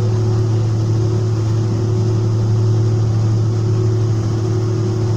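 Steady drone of an airliner's cabin, with a constant low hum and a higher steady tone over the noise of engines and air circulation.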